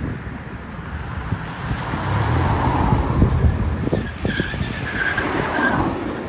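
Airbus A320 jet engines on final approach, a rumble that swells toward the middle with a whine from the engine fans in the second half. Wind buffets the microphone with gusty low thuds.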